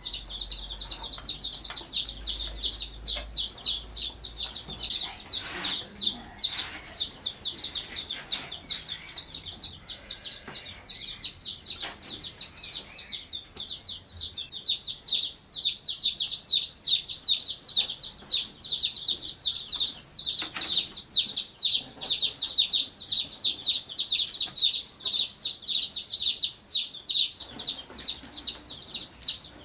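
A flock of chicks peeping continuously, a dense run of rapid high cheeps that gets busier about halfway through.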